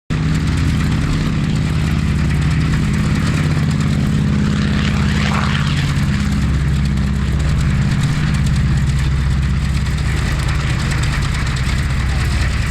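Avro Anson Mk.I's twin Armstrong Siddeley Cheetah seven-cylinder radial engines running with a steady, low-pitched drone. A brief rush of higher-pitched noise comes about five seconds in.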